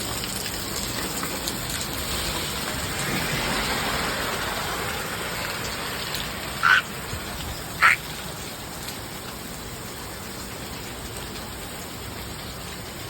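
Rain falling steadily during a thunderstorm, with runoff water rushing. About halfway through come two short, loud chirps about a second apart.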